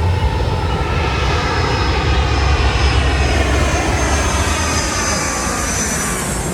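Jet airliner passing low overhead on its landing approach: a loud engine rumble with high whining tones that slowly fall in pitch as it goes over, easing off near the end.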